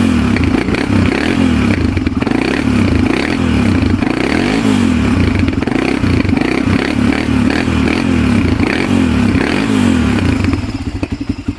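1997 Honda TRX300EX ATV's single-cylinder four-stroke engine running cold just after a cold start, its speed wavering up and down. Near the end it falters and runs unevenly, typical of this cold-blooded engine that sometimes shuts off before it warms up.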